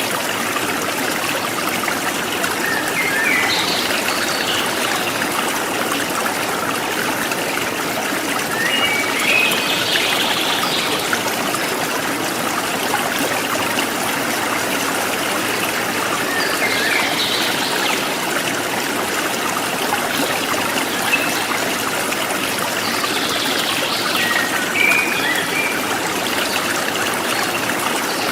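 River water flowing and trickling steadily over stones, with a few brief, higher-pitched sounds every several seconds.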